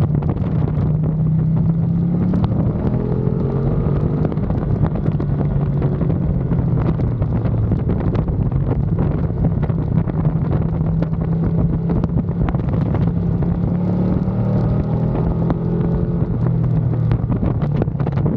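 Ducati Panigale V2's 955 cc V-twin engine running hard on track, its note rising and falling in pitch, under heavy wind buffeting on the bike-mounted microphone.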